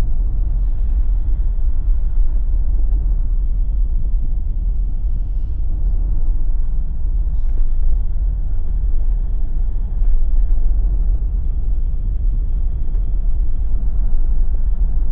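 Steady low rumble of a Jeep driving: road, tyre and engine noise with no sharp events.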